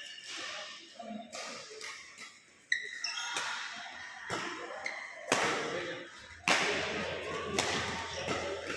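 A few sharp knocks or thuds, the loudest about five and six and a half seconds in, over indistinct voices in a large, echoing room.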